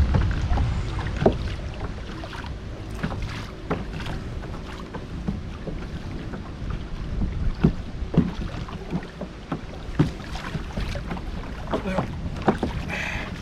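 Wind buffeting the microphone with a low rumble, while small waves slap and knock against a kayak hull in scattered, irregular taps.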